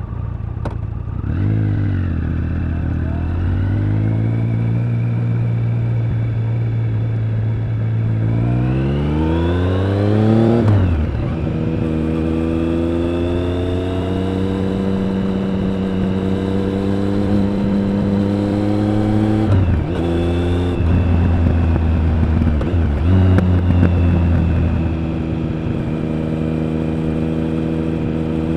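Triumph Speed Triple 1050's three-cylinder engine and exhaust on the move. It picks up about a second in and holds a steady note, then revs up hard for a couple of seconds and drops off sharply, as at a gear change. It then runs steadily with two brief dips and rises again near the end.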